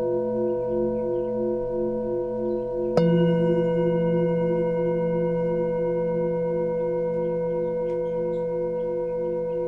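Singing bowls ringing, their tones pulsing slowly. About three seconds in, a bowl is struck, adding a lower, louder tone that fades slowly. Small birds chirp faintly throughout.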